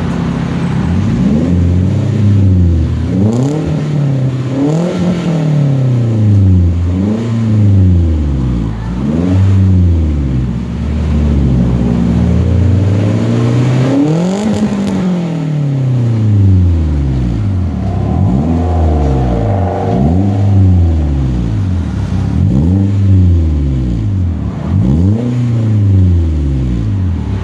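Toyota Grand New Avanza's four-cylinder engine blipped over and over through an aftermarket bolt-on racing exhaust with an HKS-style round bass muffler, the exhaust note rising and dropping back each time, roughly a dozen revs, with one longer, higher rev about halfway through.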